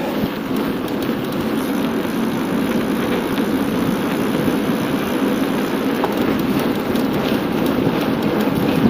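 Steady rushing noise of a bicycle ride: tyres rolling on the asphalt track and wind over the camera's microphone.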